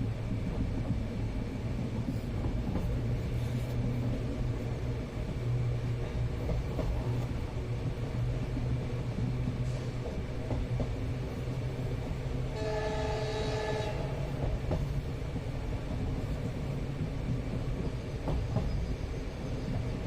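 Steady rumble and rattle of an Indian passenger train carriage running on the rails, heard from inside. A train horn sounds once for about a second and a half, a little past the middle.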